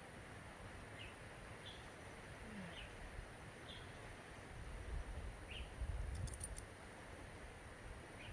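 Faint short high chirps from a bird, repeated about once a second, over a steady outdoor hiss. A low rumble with a few clicks comes about two-thirds of the way through.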